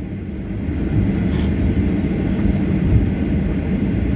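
Steady low rumble of airliner engines as planes taxi toward the runway, with a brief faint hiss about a second in.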